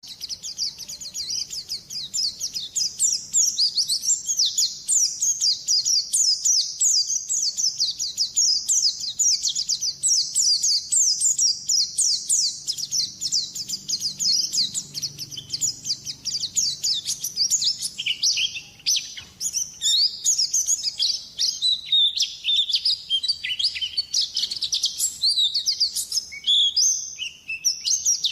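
Pleci (white-eye) songbird singing nonstop: a fast, high twittering of quick downward-slurred notes with hardly a pause.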